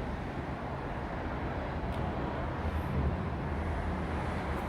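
Steady low rumble of room or handling noise, with a faint click about two seconds in.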